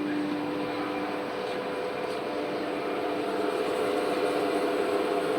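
CNC router's motors running with a steady mechanical hum and several whining tones as the machine is jogged. One tone stops about a second in, and the noise grows louder near the end.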